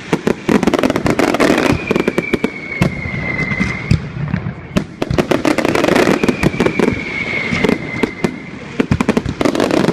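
Fireworks display: a dense run of rapid crackling and popping bangs, swelling into thicker bursts of crackle about every four seconds. A thin high whistle, falling slightly in pitch, comes and goes through it.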